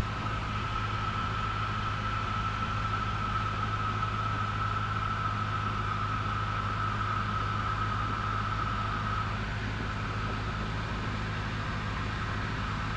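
Steady drone of a Cessna 172N's four-cylinder Lycoming engine and propeller, heard inside the cabin, with a constant low hum. A thin, steady high whine runs over the drone and fades about nine seconds in.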